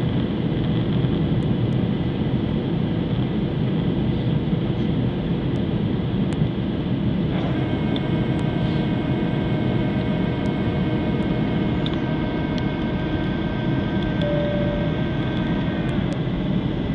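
Steady cabin noise of an airliner on approach: a dense engine and air rush. About halfway through, a steady whine of several tones comes in and holds for about eight seconds before cutting off.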